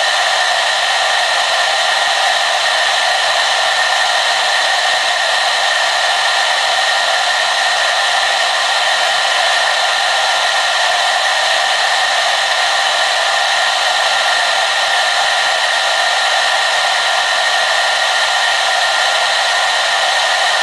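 Hair dryer blowing steadily on one setting: an even, unchanging airy hiss with a faint whine.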